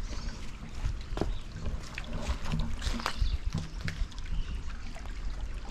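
Footsteps crunching on loose stony ground, irregular crackles several times a second, over a low rumble on the microphone.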